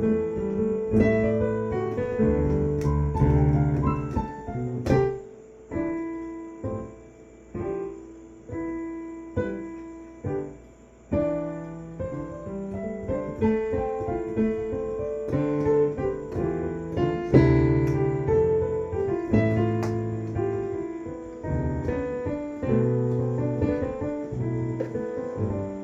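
Piano playing a slow piece of chords over low bass notes, each chord struck and left to ring and fade before the next.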